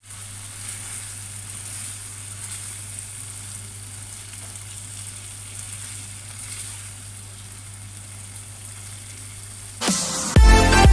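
Pork mechado sizzling in its tomato sauce in a nonstick frying pan as it is stirred with a spatula, a steady hiss over a low steady hum. About ten seconds in it cuts to loud electronic music with a plucked-string beat.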